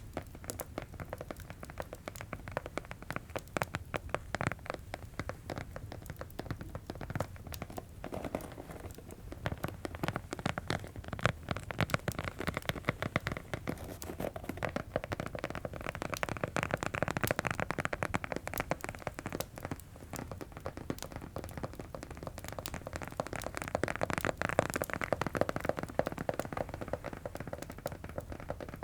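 ASMR tapping: a dense, continuous run of quick taps on objects.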